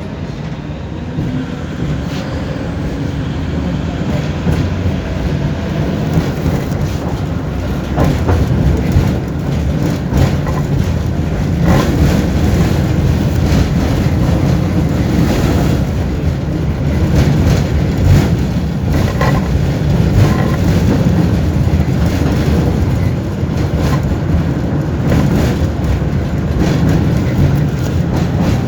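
Tram running along its rails, heard from aboard: a steady low rumble with clicks and knocks from the wheels over the track. It grows louder over the first eight seconds or so, then holds steady.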